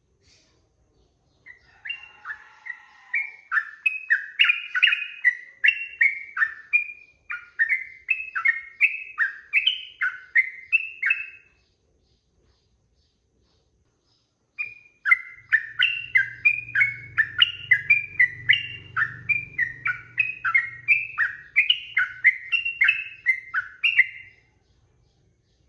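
Yellow-vented bulbul (trucukan) singing in two long bouts of fast, rapidly repeated notes, with a pause of about three seconds between them. A faint low hum runs under the second bout.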